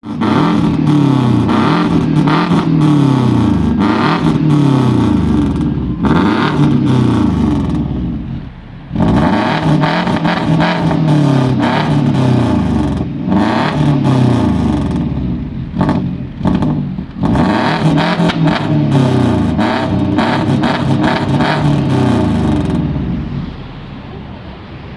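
Lada Priora's four-cylinder engine revved up and down over and over through an aftermarket "AMG"-style exhaust, the note rising and falling about once a second with sharp crackles. It settles to a steadier, quieter idle near the end.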